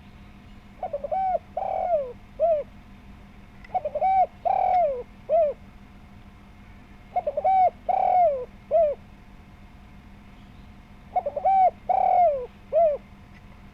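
Spotted dove cooing its repeated song four times, about every three and a half seconds. Each phrase is a few quick notes, one longer swelling note and a short final note, over a faint steady low hum.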